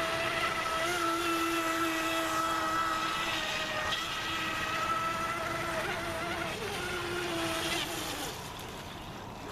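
Radio-controlled racing boat's brushless electric motor driving an outboard through a flex shaft, running on the water: a steady whine that wavers slightly in pitch and fades near the end.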